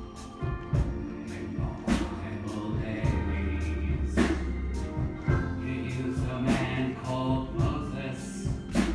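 Church congregation singing a gospel song together, over sustained low bass notes, with a few sharp percussive hits: one about two seconds in, one about four seconds in and one near the end.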